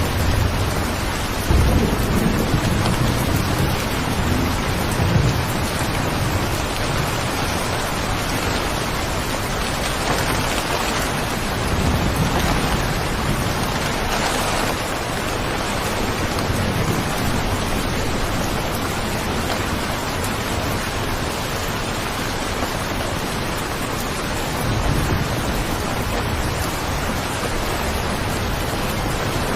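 Steady heavy rain with low rolling rumbles of thunder, strongest in the first few seconds and again near the end.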